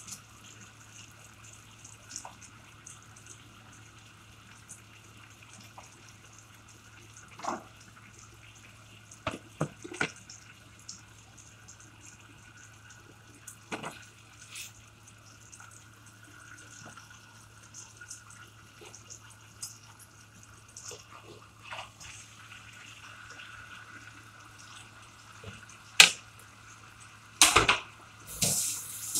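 Tomato slices frying softly in oil in a wok on low heat, a faint crackling hiss over a steady low hum. Scattered clicks and knocks as slices are laid in and utensils touched, with a few sharper knocks near the end.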